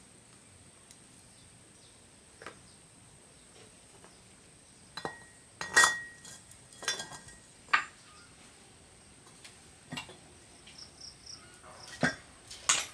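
Metal tools and parts clinking and knocking as they are handled during repair work: about eight separate sharp clinks, the loudest a little over halfway through with a short metallic ring.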